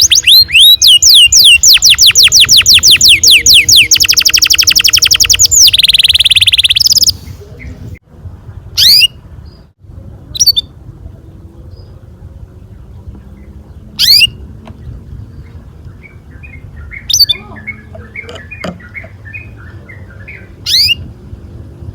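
Canary singing: a loud, fast roll of rapidly repeated notes for about the first seven seconds, then breaking off into single sharp chirps that fall in pitch, every few seconds.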